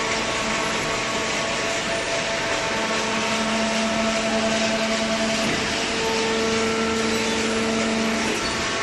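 Hydraulic baler running steadily, a dense mechanical noise with a steady low hum that grows stronger from about three seconds in and eases just before the end.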